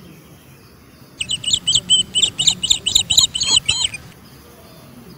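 A bird singing a quick run of about a dozen high chirps, lasting nearly three seconds and starting about a second in.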